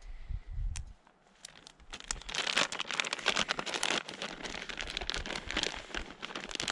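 Packaging being handled and crinkled: a few low bumps, then a dense crackling rustle starting about two seconds in that keeps going for several seconds.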